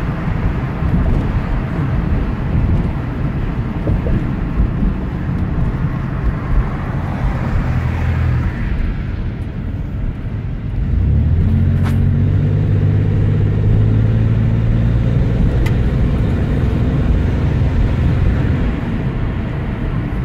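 1994 Chevrolet Camaro engine and exhaust running. About eleven seconds in, the engine note turns into a steadier, louder low drone.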